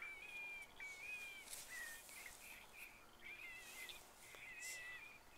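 Faint, high whistled chirps in short repeated phrases, some sliding down in pitch, like a bird singing.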